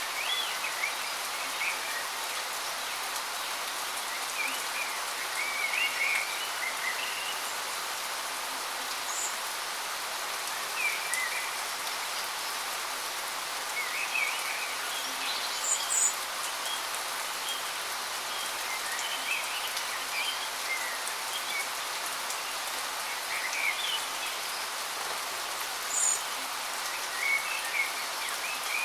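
Waterfall's steady rush of falling water, with birds chirping every few seconds over it.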